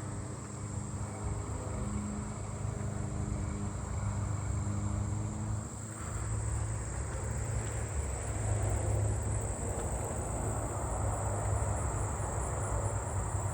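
Steady high-pitched chorus of singing katydids and crickets, with a low vehicle rumble underneath that swells about two-thirds of the way through.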